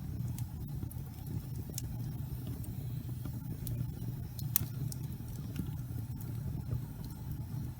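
Fire burning in a fireplace: a steady low rumble with scattered sharp crackles and pops, the loudest a little past halfway.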